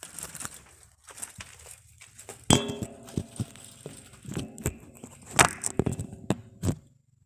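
Irregular clattering knocks and clinks, the loudest about two and a half, five and a half and near seven seconds in, some leaving a brief metallic ring.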